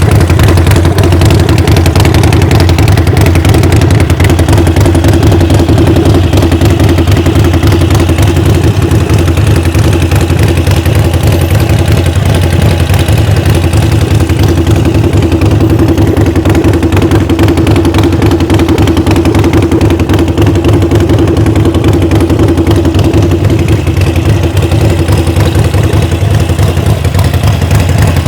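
Harley-Davidson Sportster XL 1200 Forty-Eight's 1200 cc air-cooled V-twin idling steadily.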